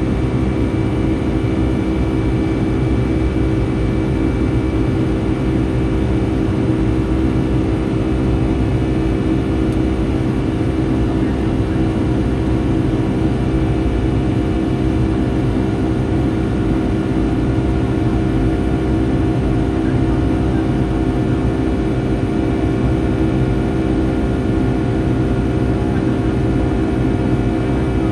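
Steady jet engine and airflow noise inside the cabin of a Boeing 757-300 in flight, a constant rumble with a few steady tones over it.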